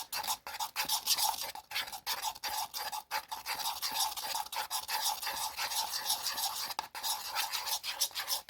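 Clear glue and metallic slime activator being stirred quickly and continuously in a container, a rapid scratchy scraping of the utensil through the mixture, which is not yet sticky.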